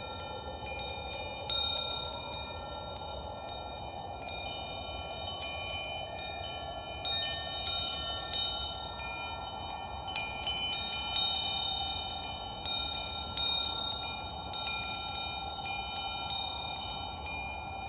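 Wind chimes ringing, struck irregularly at several pitches with each note ringing on, over a steady hiss. The loudest strike comes about ten seconds in.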